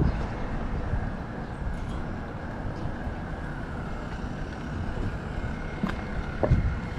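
Outdoor urban ambience: a steady low rumble of vehicle traffic, with a faint high tone above it and two short knocks about six seconds in.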